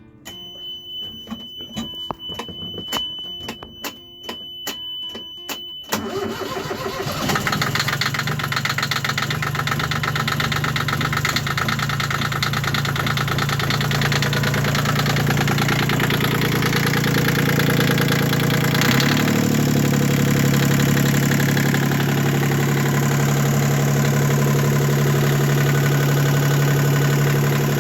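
Sailboat's inboard engine being started with its prop shaft uncoupled: rapid knocks of cranking under a steady high tone, then about six seconds in the engine catches and settles into a steady idle.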